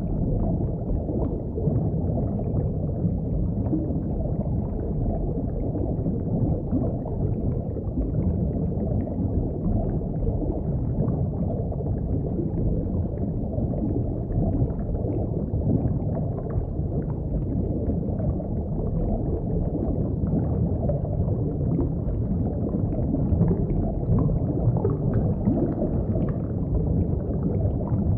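Steady underwater ambience: a deep, even rumble with bubbling through it, unchanged throughout.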